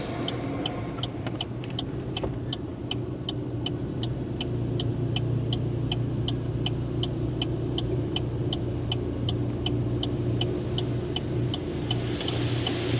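Automatic car wash tunnel, heard from a car riding through it: a steady low hum with a regular high tick about three times a second, and a hiss rising near the end.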